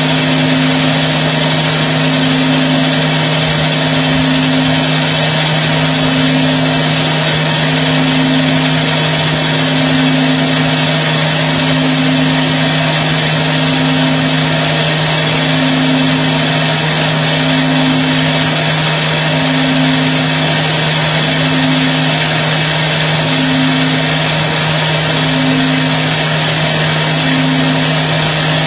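Roll turning CNC lathe running steadily: a constant low hum with a second tone that swells and fades about every two seconds, over an even hiss.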